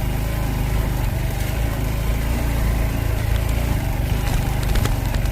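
Honda CT125's single-cylinder engine running steadily, with a few faint clicks about four seconds in.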